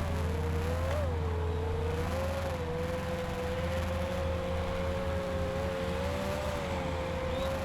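FPV quadcopter's brushless motors whining at a steady, near-constant throttle, the pitch wavering only slightly.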